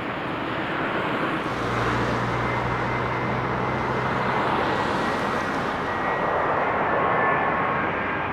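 Airliner's jet engines heard from the ground, a broad rushing noise that grows slowly louder as the aircraft nears, with faint high whining tones coming in during the second half.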